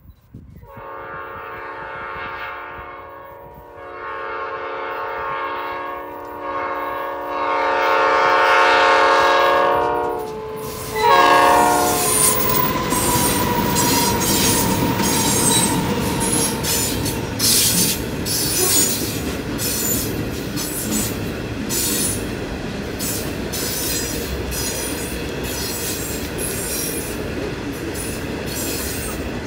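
Electric freight locomotive's air horn sounding four blasts, long, long, short, long, the grade-crossing signal, as the train approaches. A tone falls in pitch as the locomotive passes close. Then coal hopper cars roll by with a steady rumble, clickety-clack of wheels over rail joints, and wheel squeal.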